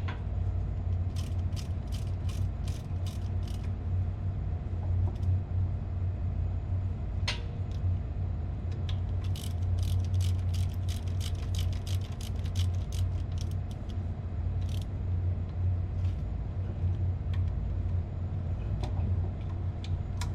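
Steady low hum of running plant-room machinery, with two runs of rapid metallic clicking from a hand tool, about four clicks a second: once in the first few seconds and again for several seconds in the middle.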